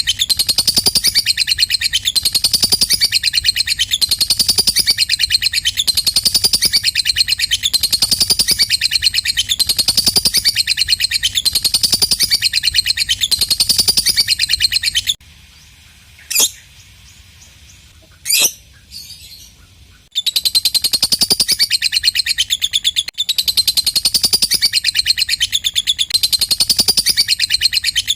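Lovebird singing its long 'ngekek' song: continuous shrill chattering in fast, repeating phrases. About halfway through it stops for some five seconds, broken only by two short sharp calls, then starts up again.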